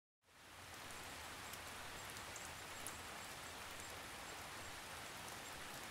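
Soft, steady rain ambience that fades in over the first second, with a few faint drop ticks.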